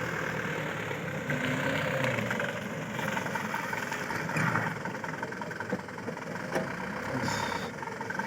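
Loaded truck's engine running at low revs, with a few short knocks and clatters.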